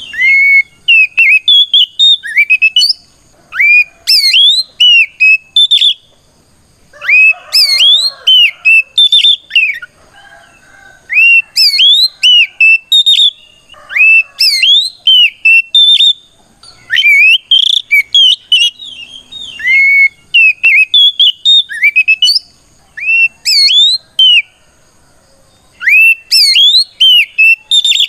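Oriental magpie-robin (kacer) singing a loud, full challenge song. It goes in phrases of quick rising and falling whistled notes, each a second or two long, with short pauses between them. This is the song a male uses to call out a rival.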